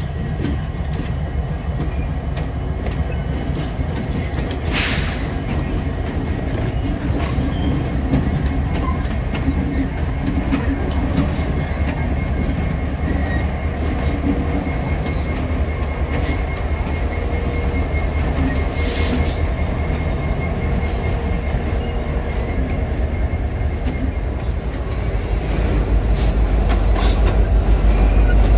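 Norfolk Southern freight train rolling past: a steady rumble and clatter of rail cars on the track, with a faint high wheel squeal in the middle and a few sharp clanks. The low rumble grows louder near the end.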